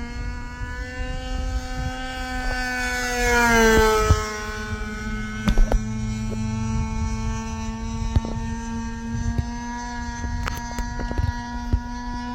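Small two-stroke glow engine of an RC model airplane running at high revs with a steady buzz. About four seconds in it grows louder and rises in pitch, then drops in pitch as the plane passes, and runs on steadily after.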